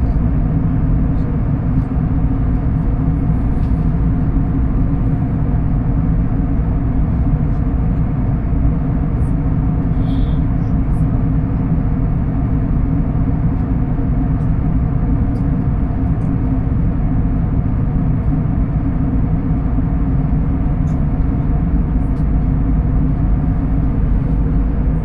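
Steady low rumble of a moving vehicle heard from inside, even and unbroken, with a few faint steady tones through it.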